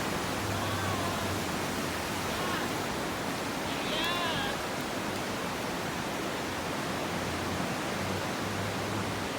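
Chegem waterfall: water falling in a steady, even rush. Faint voices can be heard about four seconds in.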